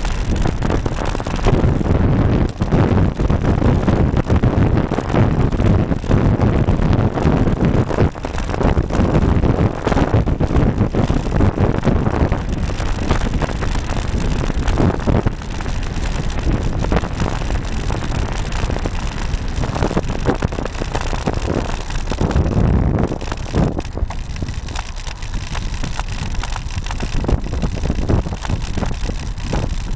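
Wind buffeting the microphone of a camera mounted on a moving road bike, with rolling road noise underneath. It is loud and rough for most of the stretch and eases somewhat about three-quarters of the way through.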